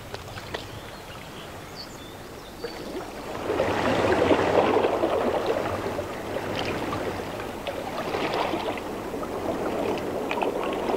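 River water splashing and sloshing around divers searching the riverbed, swelling about three and a half seconds in and then carrying on unevenly.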